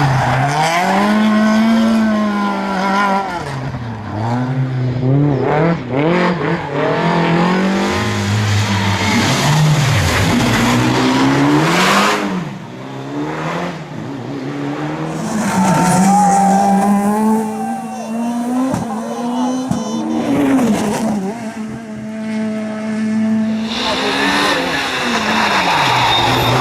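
Rally cars driven flat out past the spectators one after another, their engines revving hard, the pitch climbing and dropping again and again through gear changes and lifts.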